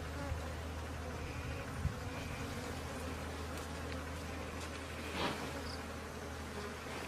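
Swarm of bees buzzing steadily around their nest, with a few faint ticks.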